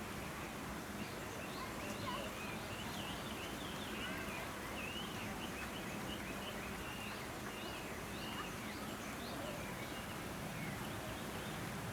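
Small birds chirping: a string of quick, high chirps that rise and fall in pitch, over steady background noise.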